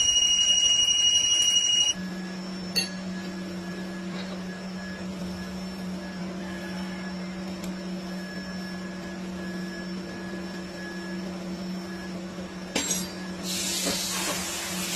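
A machine's motor humming steadily at a low pitch, after about two seconds of a steady high-pitched electronic tone. A couple of clicks sound, and near the end a loud hiss joins the hum.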